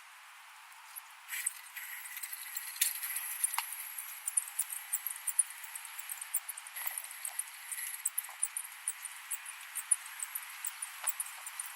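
Electric skateboard rolling: a steady high-pitched whine comes in about a second and a half in, over frequent small clicks and rattles.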